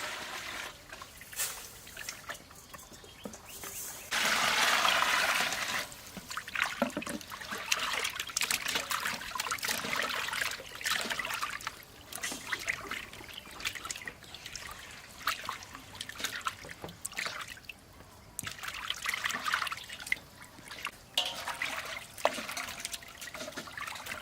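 Water pouring and trickling in repeated spells, with one steady, louder pour about four seconds in that lasts about two seconds, and scattered small knocks in between.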